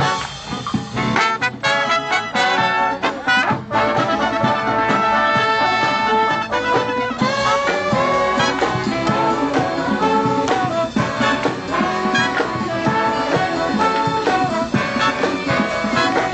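College brass-and-saxophone band playing live in a jazz style, with trumpets and trombones. Sharp ensemble stabs over the first few seconds give way to held horn lines.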